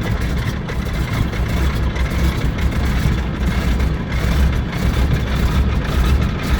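A Stinson's Pratt & Whitney R-985 nine-cylinder radial engine idling steadily at low power, warming up just after start-up.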